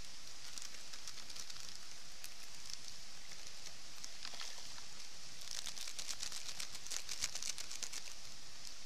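Wood campfire crackling over a steady hiss, with scattered pops that come thick and fast a little past the middle.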